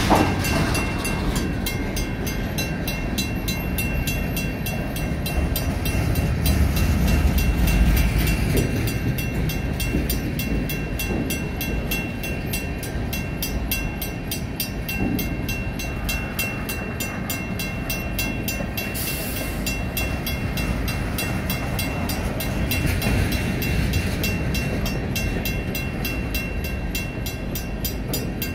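Freight cars rolling past a grade crossing with a steady low rumble, while the crossing's WCH mechanical bell rings in rapid, evenly spaced strikes.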